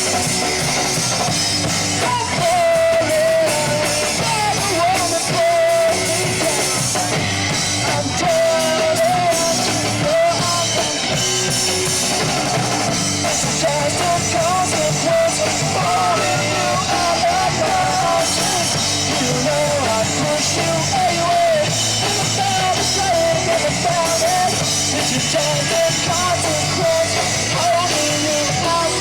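Live rock band playing a song: drum kit and electric guitars, with a wavering lead melody on top.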